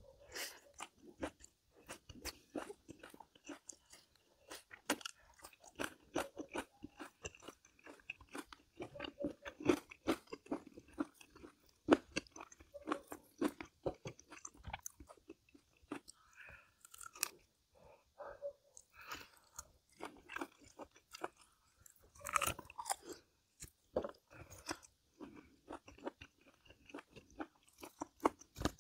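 A person chewing and crunching food mouthful after mouthful, with irregular crisp crunches and clicks that come in quick, uneven runs.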